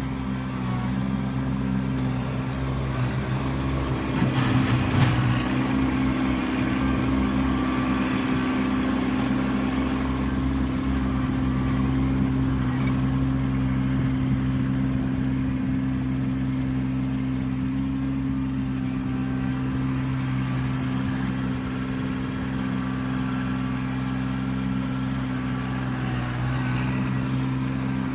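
Kubota B2650 compact tractor's three-cylinder diesel engine running steadily under work, with a brief louder, rougher spell about four seconds in.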